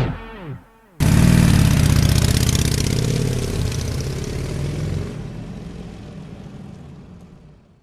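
Motorcycle engines running and revving. The sound cuts in suddenly about a second in, after the last of a rock song, and fades out over the last three seconds.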